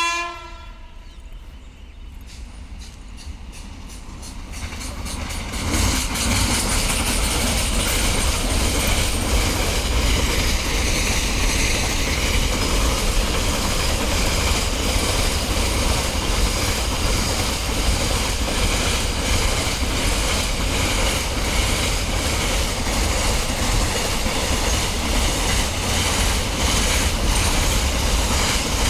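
A train approaching and running past: after the tail of a horn note right at the start, the sound builds over the first few seconds into a steady rumble with wheels clacking over the rail joints.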